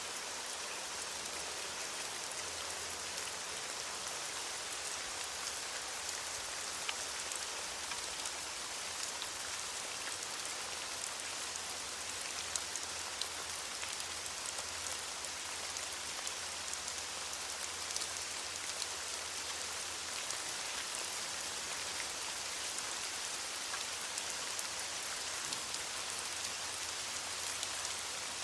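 Steady rain falling on leaves: a constant hiss of drops with many small close patters.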